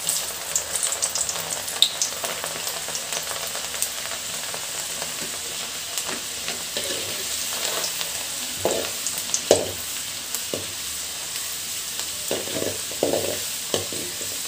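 Soaked moong dal deep-frying in hot oil, sizzling steadily and frothing heavily right after going in. Short scrapes of stirring in the pan come now and then in the second half, several close together near the end.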